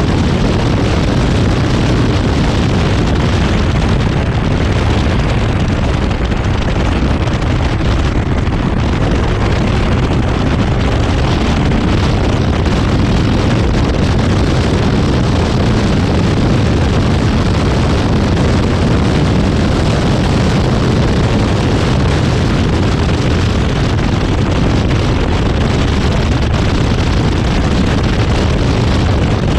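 Zenos E10R's turbocharged four-cylinder engine running hard at track speed, heard from the open cockpit under heavy wind buffeting on the microphone.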